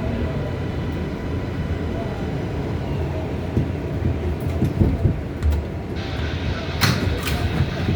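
Steady rumble of an R188 subway car on the 7 line with a faint high tone. Near the end a higher hum joins in, along with a couple of sharp clicks.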